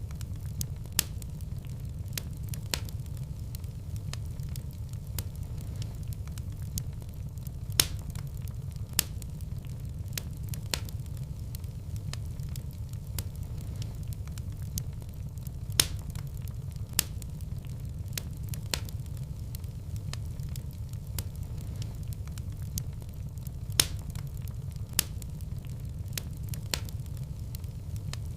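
Fireplace fire crackling steadily over a low rumble, with irregular sharp pops; the louder pops recur in a similar pattern about every eight seconds.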